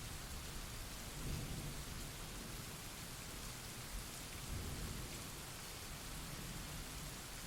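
Steady rain falling, with low rolls of thunder rumbling twice, about a second in and again past the midpoint.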